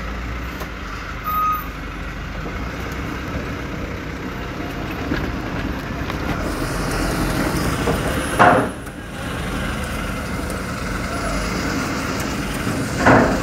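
Steady low engine rumble with a background din, a short high beep about a second in, and two brief loud bursts near 8 and 13 seconds.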